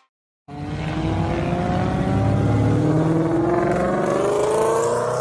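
A car engine accelerating, its pitch climbing slowly and steadily over a low rumble. It starts abruptly about half a second in, after a brief silence.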